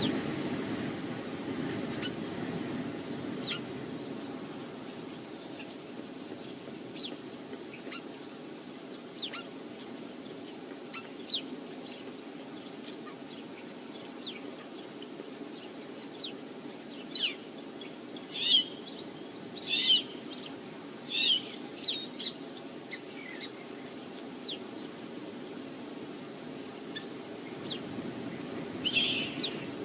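Wind buffeting the microphone, with many short high bird chirps scattered throughout and a few clusters of rapid calls around the middle and near the end.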